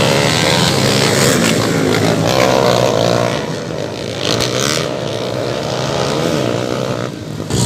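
Several tricycle-type motorcycle engines revving at once as a pack races round a motocross track, their pitches rising and falling as the riders throttle up and back off.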